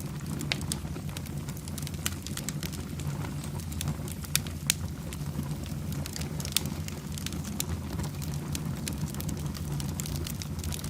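Wood fire burning in a fireplace: a steady low rush of flames under frequent, irregular crackles and pops, with a few sharper snaps standing out.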